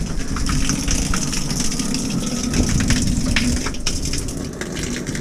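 Outdoor shower running with water flowing steadily.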